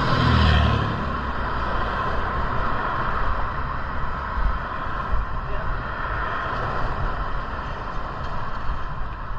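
Steady riding noise of a moving bicycle, mostly wind on the microphone, with a brief louder low rumble in the first second.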